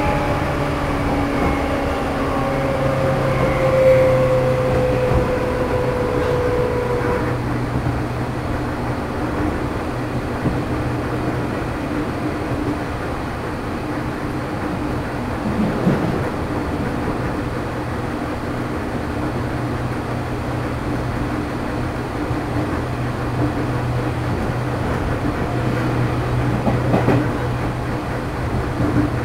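JR East 211 series electric train heard from aboard motor car MoHa 211-1 as it slows toward its stop. The traction motor and gear whine falls in pitch over the first seven seconds or so and dies away, leaving a steady low hum and running noise with a couple of faint knocks.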